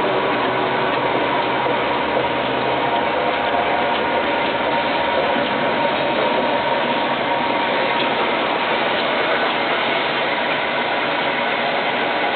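PET bottle washing machine running: a steady mechanical whirring clatter with a constant hum.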